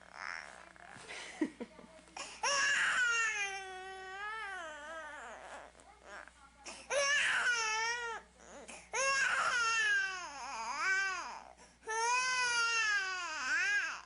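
Infant crying: a little fussing, then four long wails that waver up and down in pitch.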